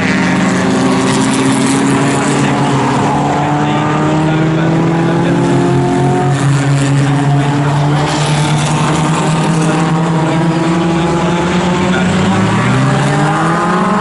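Pre-1961 sports racing cars running at race pace, several engine notes heard together, climbing in pitch as they accelerate, with a fresh steep rise near the end.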